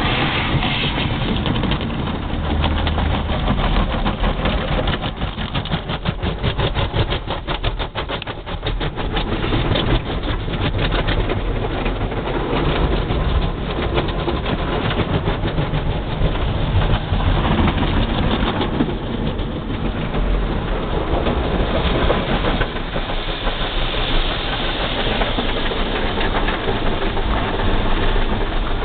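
Car wash machinery running: loud, steady spraying and mechanical noise, with a fast flapping rhythm through its first half.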